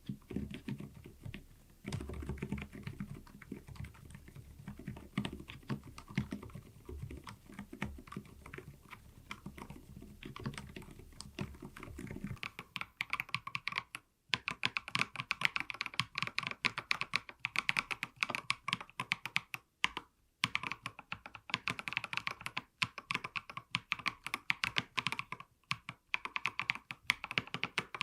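Typing on an mStone mechanical keyboard, a fast run of key clacks. About twelve seconds in, the sound changes to a louder, crisper clack, with brief pauses in the typing.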